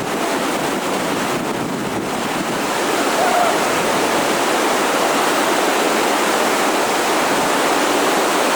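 Whitewater rapids on the Youghiogheny River rushing steadily and loudly.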